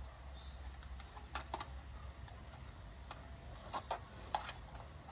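Scattered light clicks and taps as the parts of a new handheld tripod stand are handled and fitted together.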